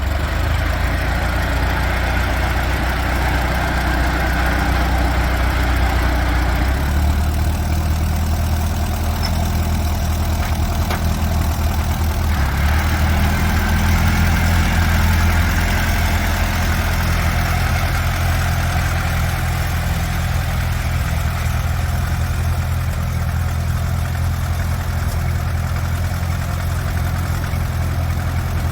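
Allis-Chalmers CA tractor's four-cylinder engine running steadily at about idle, with a couple of small shifts in its note partway through.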